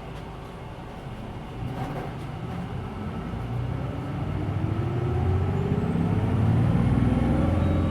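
Hino Blue Ribbon City Hybrid bus pulling away from a stop, heard from inside the cabin: the hybrid drivetrain builds up with a rising whine, and the engine grows steadily louder over the first five seconds.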